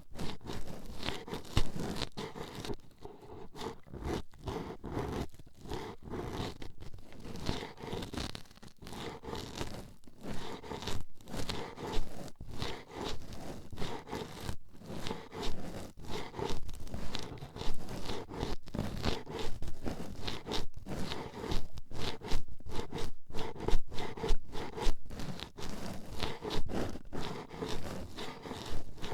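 Toothpicks jabbing and scratching right at the microphone in rapid, irregular taps and scrapes with no pause.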